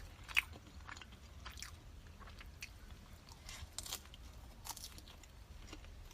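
A person chewing food with the microphone close to the mouth: irregular wet mouth clicks and smacks.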